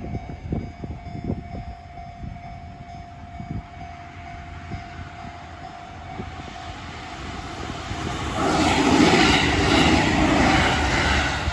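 Electric train passing close by, growing louder from about six seconds in and running loud for the last three seconds, over strong wind buffeting the microphone.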